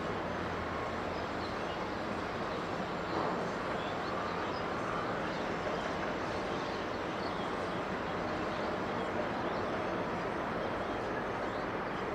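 Steady rumble of jet airliner engines.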